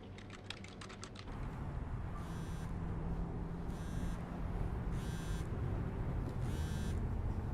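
Keyboard typing clicks for about the first second, then a steady low rumble with a short electronic buzz sounding four times, about every second and a half.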